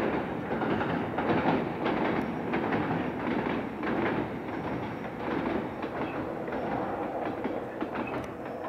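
Passenger train coaches rolling across a steel girder bridge: a steady rumble with clattering wheels, slowly fading as the last coach comes off the bridge.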